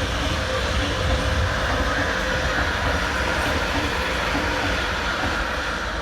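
A train running along the tracks close by: a loud, steady rumble and rush of wheels and cars.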